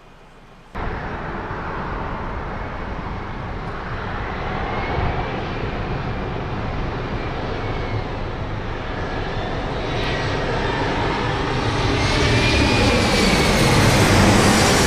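Jet airliner engines running, starting abruptly about a second in and growing louder toward the end, with a faint whine that rises and falls in pitch.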